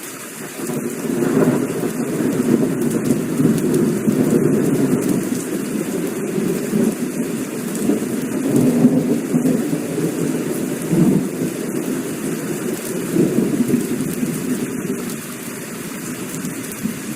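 Heavy rain pouring down while a long roll of thunder breaks in about a second in, with a brief crack, then rumbles on, swelling and easing for the rest of the stretch.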